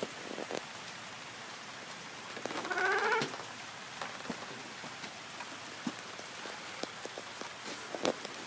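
Steady rain falling in a storm, with a few scattered light knocks. About two and a half seconds in, a short wavering cry rises and falls for under a second over the rain.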